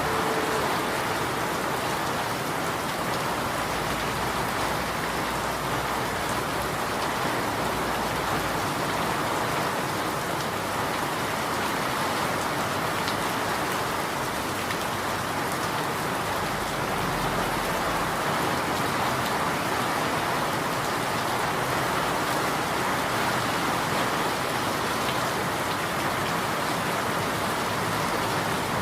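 Steady rain falling: an even, unbroken hiss of drops at constant strength.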